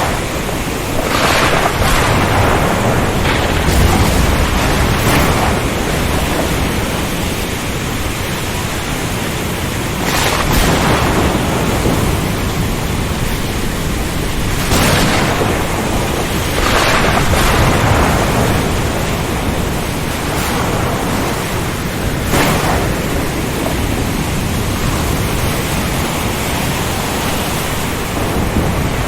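Ocean storm ambience: a constant rush of wind and rain with louder surges every few seconds.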